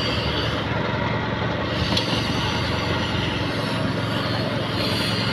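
Steady rumble of vehicle engines.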